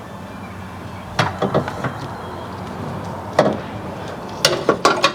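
Metal clanks and knocks from car suspension parts being worked loose and lowered, over a steady low hum. A few sharp knocks come about a second in, one more past the middle, and several in quick succession near the end, some of them ringing briefly.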